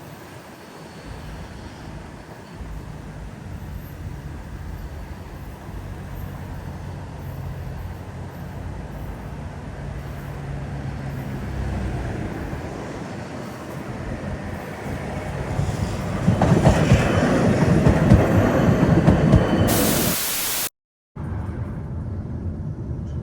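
PKTS 71-931M Vityaz-M tram running on rails, its motor hum and wheel-on-rail rumble growing louder as it goes. Near the end a short burst of hiss, then the sound cuts off abruptly.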